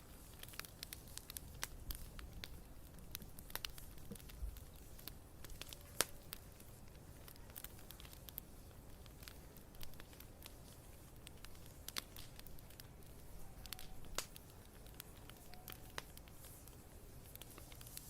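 Bonfire crackling: irregular sharp pops and snaps of burning wood over a faint steady hiss, with one louder pop about six seconds in.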